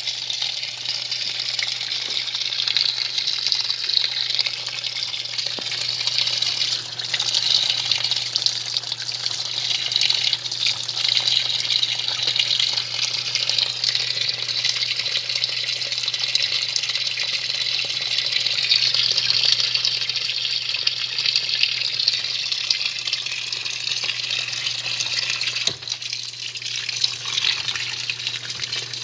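A semi-automatic 'faz tudo' washing machine running, with steady rushing, churning water over a constant low motor hum.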